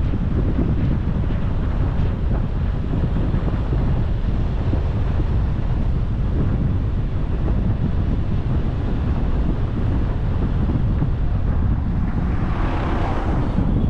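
Wind buffeting the microphone of a camera on a moving car, over the car's steady low rumble. A brief louder rushing swell comes near the end.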